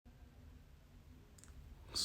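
Faint background noise with a single faint click about one and a half seconds in.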